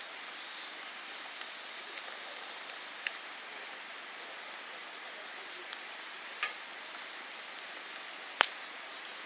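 A steady hiss-like outdoor background, like running water or rain, with a few sharp clicks or snaps, the loudest near the end.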